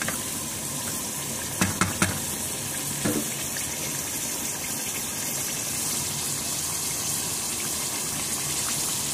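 Chicken and sliced onions sizzling as they fry in hot oil in a pot, a steady hiss. Two sharp knocks sound about two seconds in.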